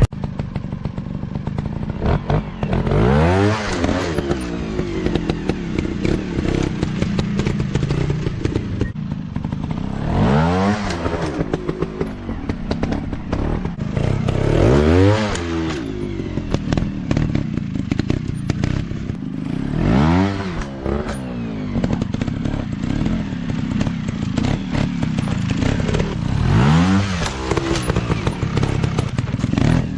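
Dirt bike engine running hard, revving up and dropping back about five times, with clattering knocks in between.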